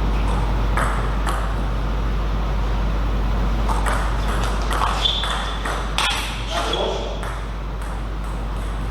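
Table tennis ball clicking off rackets and the table during play: two hits about a second in, then a quicker run of hits between about four and six seconds in. A steady low electrical hum runs underneath.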